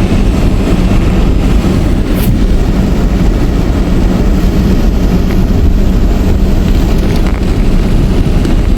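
Loud, steady rushing roar of a torrential rain storm, heaviest in the low end.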